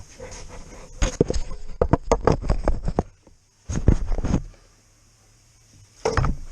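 Rapid clicks and knocks for about two seconds, then a heavier clatter about four seconds in and another near the end: handling noise from tools and parts during work on the car.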